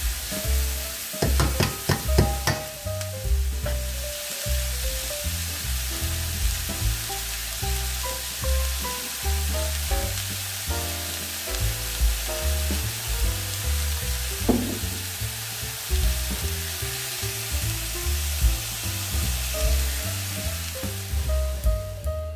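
Diced venison and vegetables sizzling as they fry in a steel pan, with a spatula clicking and scraping against the pan a second or two in. Background music with held notes and a pulsing bass runs under the sizzle.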